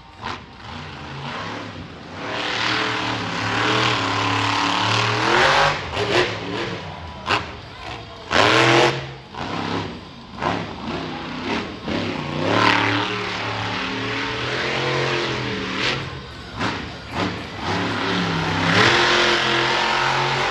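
Monster truck engine revving hard again and again, its pitch climbing and dropping. Several sharp bangs around the middle, the loudest about eight and a half seconds in, fit the truck hitting the ground.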